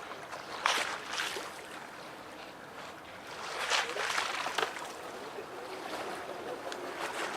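Small harbour waves lapping and splashing against the waterfront in irregular bursts, the biggest splashes about a second in and near the middle, over a steady wash of water.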